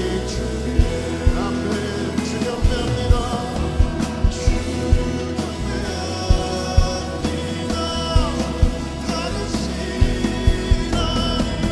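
Contemporary worship band playing a praise song: singing over a full band, with sharp drum hits marking the beat.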